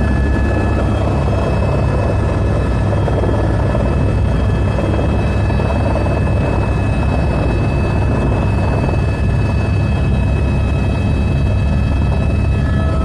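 Helicopter running: a loud, steady low rumble of rotor and engine, with thin, steady high whining tones over it.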